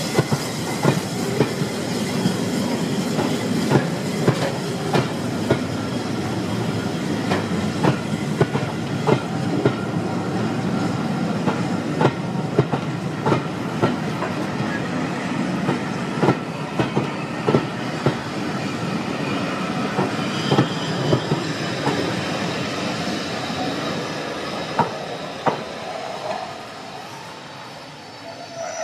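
Railway carriage wheels running over rail joints: a steady rumble with repeated sharp clickety-clack clicks, fading away near the end.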